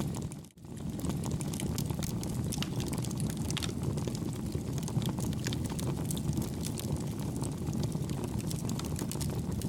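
Campfire burning: a steady low rush of flames with frequent small, soft crackles and pops. The sound dips out briefly about half a second in.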